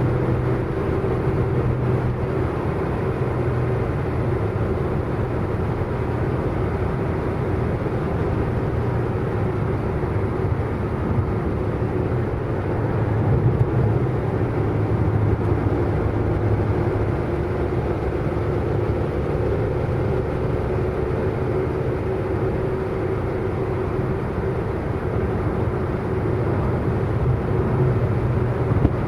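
A car driving at a steady speed: engine drone and road noise holding level, with no revving up or down.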